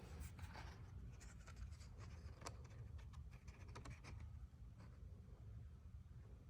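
Faint rustling and soft clicks of an old paper album's pages being handled and turned, over a low steady hum.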